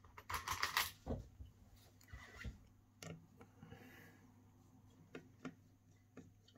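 Small repair tools handled against an opened iPhone: a short scrape near the start, a softer rasp, then a few scattered light clicks, as the screen is being taken off.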